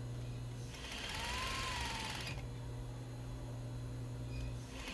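Sewing machine stitching a sleeve seam in one short run of about a second and a half, starting just under a second in, its motor whine rising and then falling as it speeds up and slows. A steady low hum is there before and after the run.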